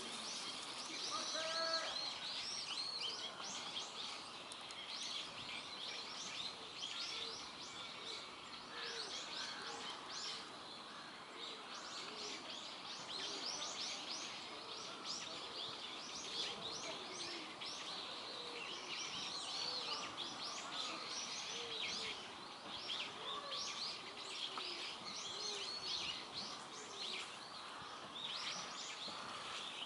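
Many small birds chirping, a dense chorus of short high calls that keeps going throughout, with lower calls mixed in now and then.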